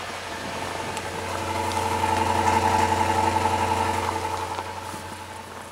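2005 Toyota Tundra engine idling steadily after a cold start in freezing weather. It grows louder over the first couple of seconds and fades again near the end.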